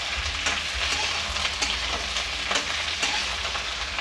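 Chopped okra and onions sizzling in hot mustard oil in a metal kadhai while a spatula stirs them, with a steady frying hiss and irregular scrapes and knocks of the spatula against the pan.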